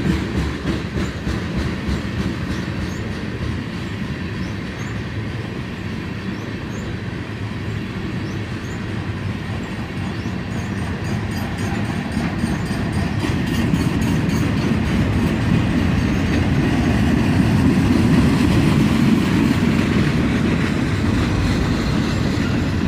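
Freight cars of a long train rolling past at slow speed: a steady rumble of steel wheels on rail with rhythmic clickety-clack over the rail joints, growing louder in the second half.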